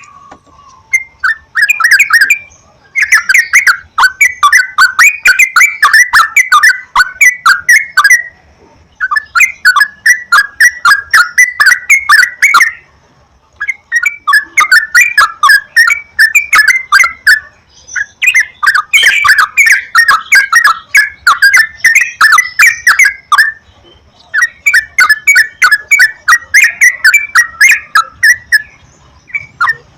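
Yellow-vented bulbul (trucukan) singing: loud, rapid chattering phrases of many quick bubbly notes, each phrase lasting several seconds with short pauses between.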